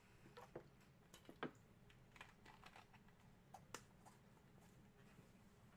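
Faint, irregular light clicks and taps of trading cards and their packaging being handled.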